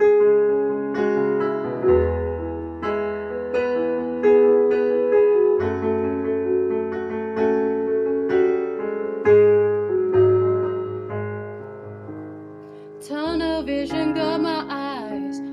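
Piano playing a slow chordal introduction, notes struck about twice a second over low sustained bass. About 13 seconds in a voice begins singing over the piano.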